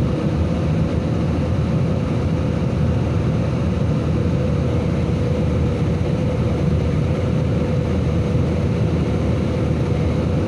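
Jet airliner engines running steadily: a dense, even rush of noise with a deep rumble and a faint steady hum, unchanging throughout.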